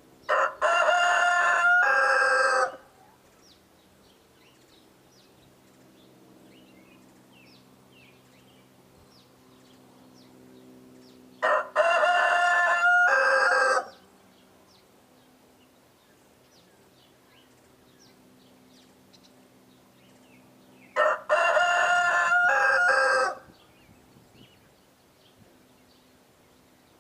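A rooster crowing three times, about ten seconds apart, each crow lasting about two seconds. Small birds chirp faintly between the crows.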